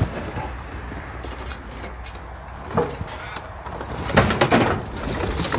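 Scrap metal car parts clanking and clattering as they are thrown onto a pile. There are single knocks at the start and about three seconds in, and a longer, louder clatter about four seconds in, over a steady low rumble.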